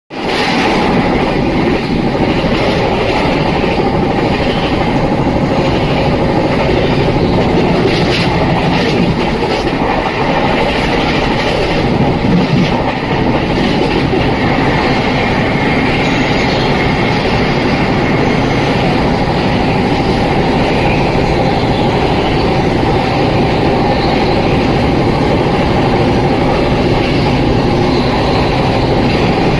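Passenger train running along the track, heard from inside a coach: the steady, loud noise of wheels on rails and the moving carriage.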